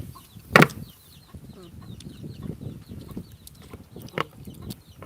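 Chickens clucking in the background, with a sharp click about half a second in and another about four seconds in.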